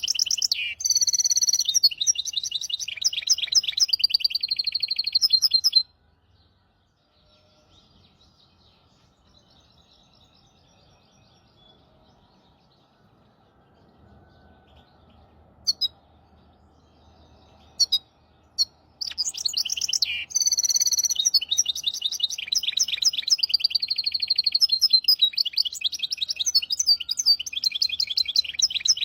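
A hybrid finch singing: a fast, trilling song phrase lasting about six seconds, then a long pause broken by two short chirps, then the singing starts again about two-thirds of the way through.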